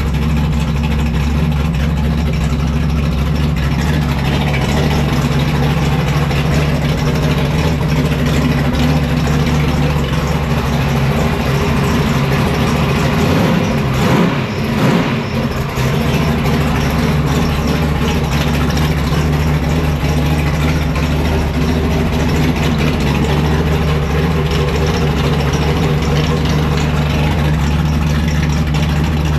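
A drag race car's engine idling steadily, run to circulate fluid through a freshly installed rebuilt transmission.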